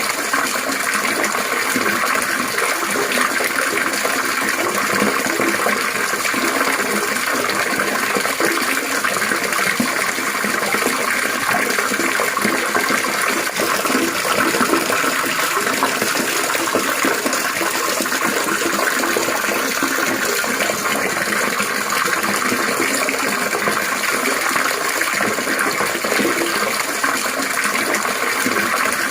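Water trickling and splashing steadily: a continuous babbling rush with no breaks.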